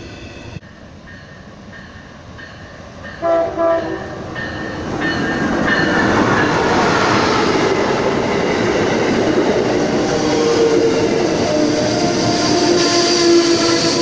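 Locomotive horn giving two short blasts about three seconds in. The rumble of the approaching train then builds and stays loud. A long horn blast starts about ten seconds in and is still sounding at the end.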